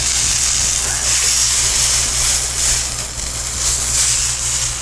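Stuffed chicken breast sizzling steadily in oil on a flat-top griddle as it is turned with tongs, searing to a golden colour near the end of cooking. A low steady hum runs underneath.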